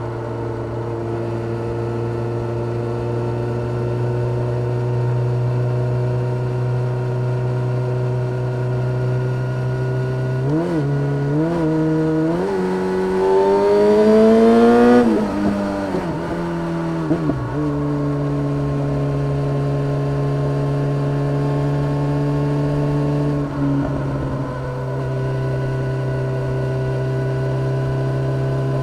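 2013 Yamaha XJ6-S 600 cc inline-four running through a full Black Widow exhaust with no catalytic converter, under way at steady revs. About ten seconds in it blips twice, then revs up to its loudest near the middle and drops back. It settles to a steady cruise again, with a brief dip in revs a few seconds before the end.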